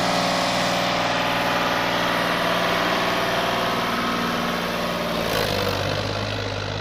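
Sonalika tractor's diesel engine running steadily; about five seconds in its note changes, the higher tones fading and the low hum getting stronger.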